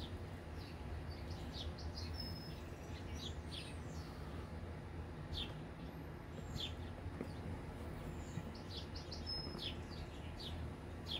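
Small songbird chirping outside: short, high notes that each drop quickly in pitch, coming in loose clusters with a few brief whistled notes, over a steady low hum.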